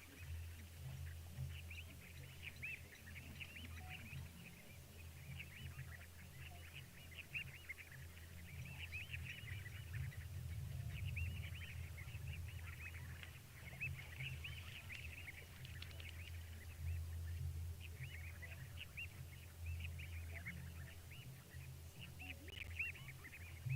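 A dense, continuous chorus of short chirping animal calls over a steady low hum.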